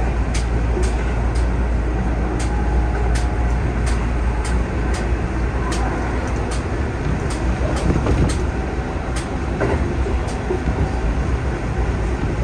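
Keihan 3000 series electric train running between stations, heard from the driver's cab: a steady low rumble with sharp clicks, about two a second, thinning out later on.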